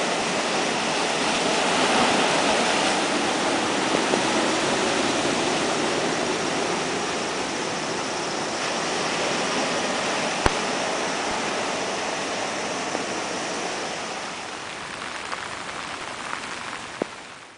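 A steady rush of sea waves and rain, the swell stirred up by an approaching typhoon. There is one sharp click about ten seconds in, and the sound fades out near the end.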